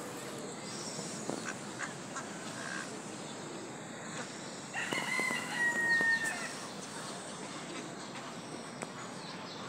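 A bird's call about five seconds in: one long held note lasting about a second and a half, over a steady background hiss.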